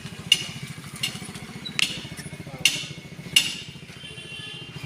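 Tractor engine idling steadily, with five sharp metallic clinks spread through it.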